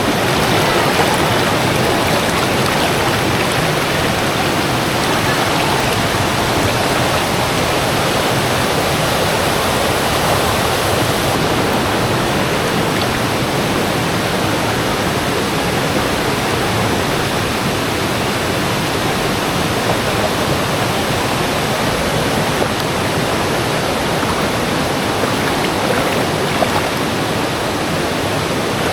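Clear, shallow rainforest river rushing over rocks and small cascades: a steady, even rush of water.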